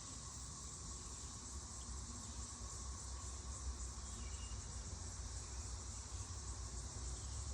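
Steady, high-pitched buzzing chorus of crickets or other insects, with a faint low rumble underneath.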